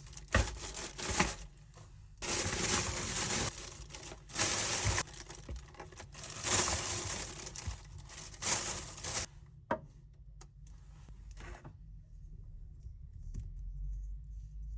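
Packaging being torn open and crinkled in several noisy bursts over the first nine seconds, followed by a few light clicks of handling.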